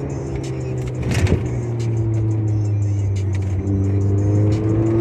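Car engine and exhaust running under way, its pitch easing slightly, then climbing steadily from about three and a half seconds in as the car accelerates.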